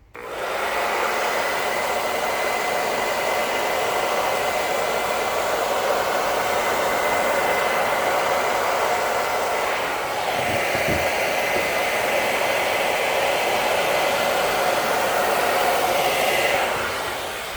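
A handheld hair dryer is switched on and runs with a steady, pretty loud rush of air and a faint whine. It dips briefly partway through, then dies away near the end with a short knock.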